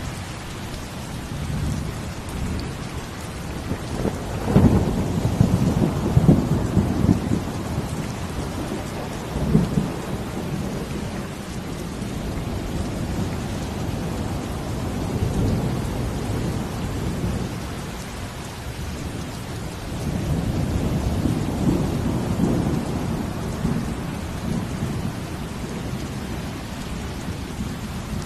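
Steady heavy rain, with deep rolling rumbles that swell and fade several times, loudest about five seconds in and again around twenty seconds in.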